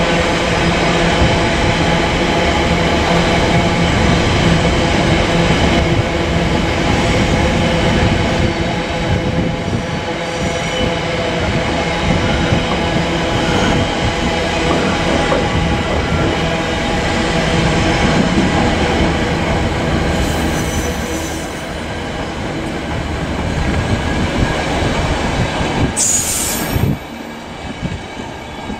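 A freight train of flat wagons loaded with concrete sleepers rolls past close by, giving a steady, many-toned metallic wheel squeal over a dense rumble. Near the end the sound drops away suddenly as the last wagon clears.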